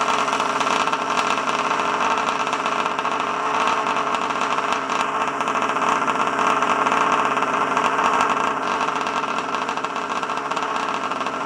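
50.8 cc RCMK twin-cylinder two-stroke engine of a Rovan Terminator 1/5-scale RC buggy running steadily through an unsilenced Victory-RC exhaust. It eases off slightly near the end.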